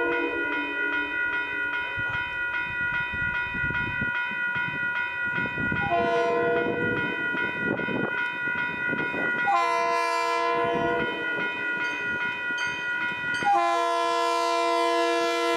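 Train horn sounding a chord in repeated blasts: one ending about a second in, another about six seconds in, another some three seconds later, and a long one starting near the end. Under the blasts, a steady high ringing with a fast regular tick.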